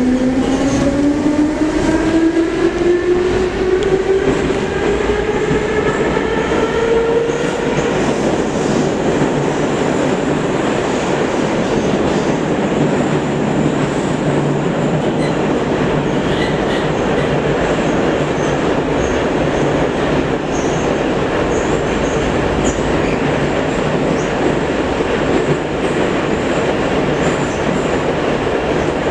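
Metro train running between stations, heard from on board: the traction motors whine, rising in pitch over the first several seconds as the train gathers speed, then give way to the steady rumble of wheels on the track at running speed.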